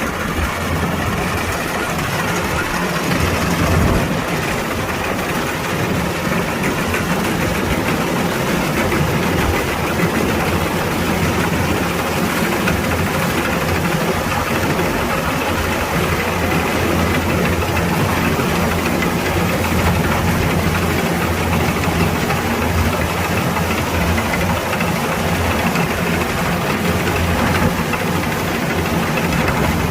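Kubota DC-105X combine harvester's diesel engine running steadily, an even drone with a dense mechanical rush over it.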